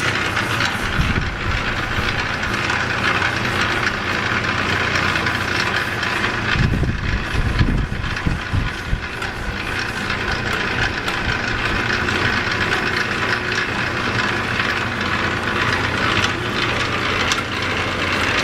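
Electric wire stripping machine running steadily with a motor hum while its rollers feed flat Romex cable through. A heavier low rumble comes for a second or two about seven seconds in.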